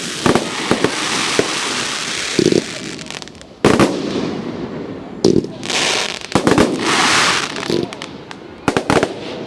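Fireworks going off: a run of sharp bangs and crackles with long hissing spells, the loudest bang a little under four seconds in.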